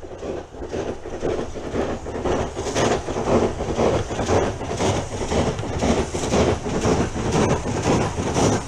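A train running on rails, its wheels making a regular clatter about twice a second. It grows louder over the first three seconds, then holds steady.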